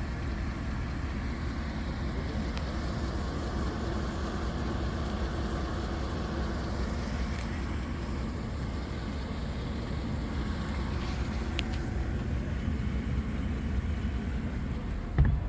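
Chevrolet 5.3L V8 running steadily at idle, with no change in pitch. A short thump near the end.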